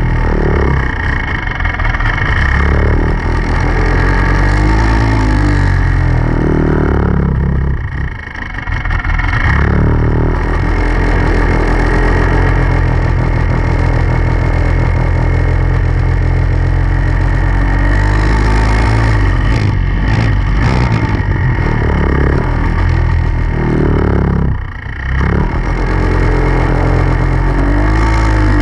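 Dirt bike engine revving up and down as it is ridden, the pitch rising and falling with the throttle. The throttle eases off briefly twice, about a third of the way in and again near the end.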